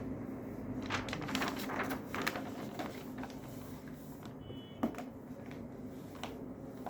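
A steady low hum, with a run of short rustles and clicks in the first few seconds and one sharp click just before five seconds.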